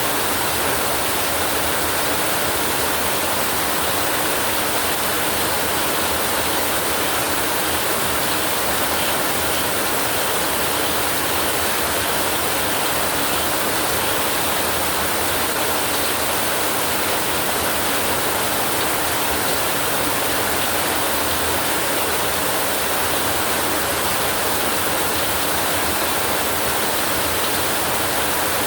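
Steady heavy rain, an even hiss that holds at one level with no thunder or other sudden sounds.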